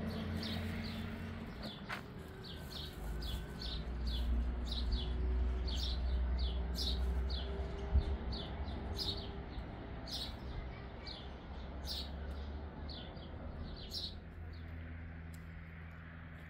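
A small bird chirping over and over, about two short high chirps a second, stopping a couple of seconds before the end, over a low steady rumble.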